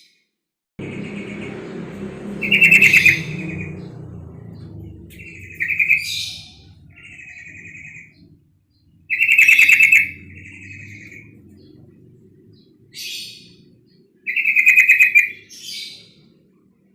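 Female yellow-vented bulbul (trucuk) calling: repeated short, rapid rattling chatters, loudest three times about six seconds apart, with quieter chatters between, over a low background rumble. It is the female's call that provokes territorial males.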